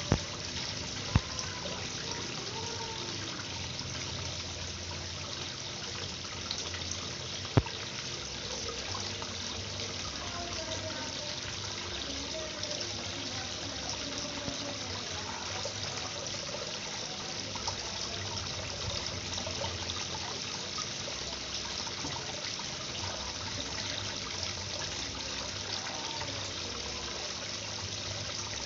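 Water trickling and splashing steadily into a koi pond. Two sharp clicks stand out, about a second in and at about seven and a half seconds.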